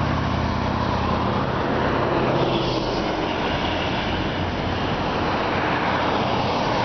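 Road traffic going by: a steady rush of tyre noise with a low engine hum underneath.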